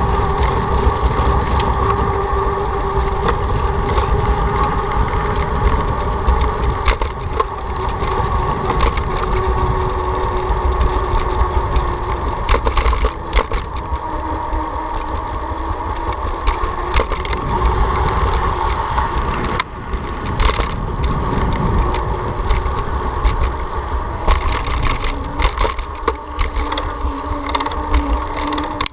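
Steady riding noise: a running engine-like hum that holds a fairly even pitch, with heavy wind rumble on the microphone and scattered rattles and knocks.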